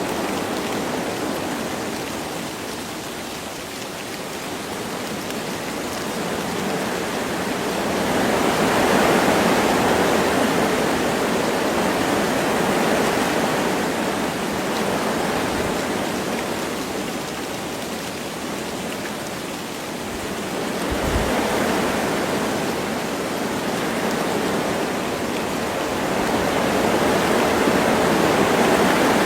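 Wind rushing through forest trees with light rain, a steady hiss that swells and eases every several seconds in gusts.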